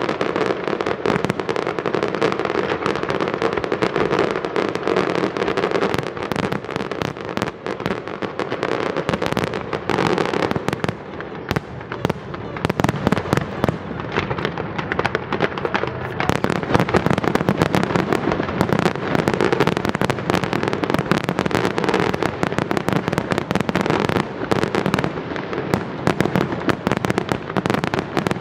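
Aerial fireworks display: a dense, continuous barrage of shell bursts and crackling reports, many a second, with no let-up.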